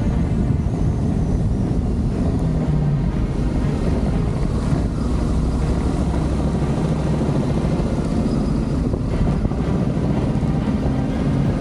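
Adventure motorcycle engine running on the move, its note shifting up and down, with wind rushing over the microphone.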